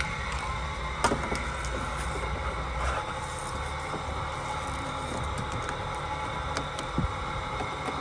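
Nearby car engine idling with a steady low rumble, with a few sharp clicks and knocks as jumper-lead clamps are handled and clamped onto a battery terminal.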